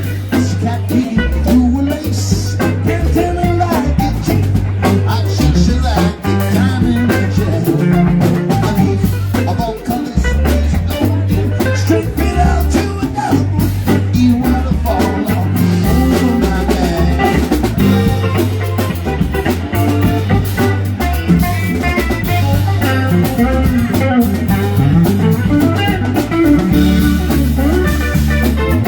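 Live band playing an instrumental passage: electric guitar over bass and drum kit, with a steady beat.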